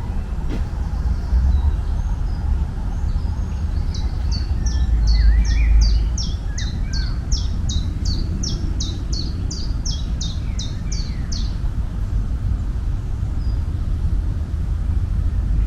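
A songbird singing a series of about twenty quick, high, down-slurred notes, evenly repeated at nearly three a second, then stopping. Under it runs a steady low rumble.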